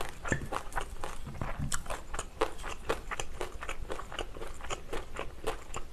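Close-miked chewing of a mouthful of rice and Korean side dishes, with many crisp crunches in quick, irregular succession, typical of biting through crunchy pickled cucumber (oiji).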